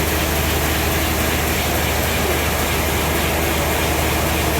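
Sawmill machinery running steadily: a constant low hum under an even wash of noise, with no change in pitch or level.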